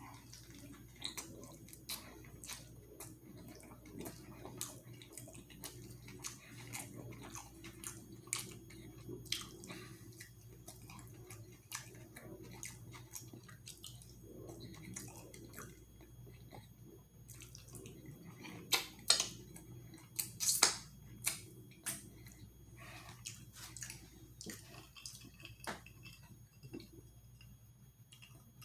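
Close-up chewing and eating: a run of wet mouth clicks and smacks, with a few louder smacks about two-thirds of the way through.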